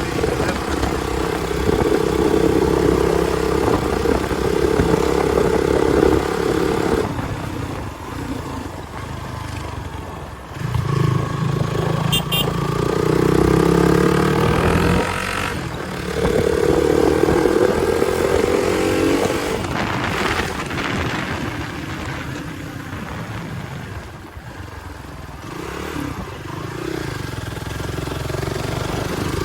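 Hero XPulse 200's single-cylinder engine through an aftermarket exhaust, ridden, its note rising and falling repeatedly as the throttle opens and closes.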